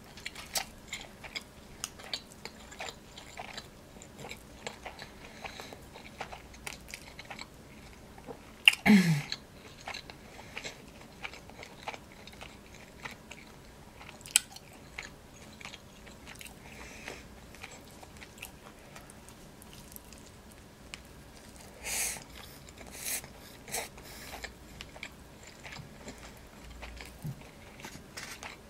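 Close-miked chewing and biting of a cheeseburger and fries, with many small wet mouth clicks. About nine seconds in comes a short, loud voiced sound sliding down in pitch, and a few louder crunching bursts come around two-thirds of the way through.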